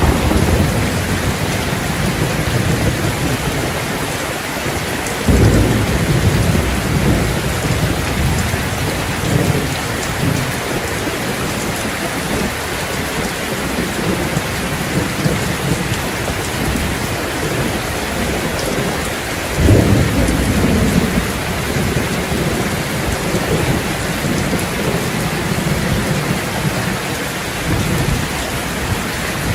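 Steady heavy rain with thunder rumbling: deep rolls swell at the start, about five seconds in and again about twenty seconds in, under the constant rain.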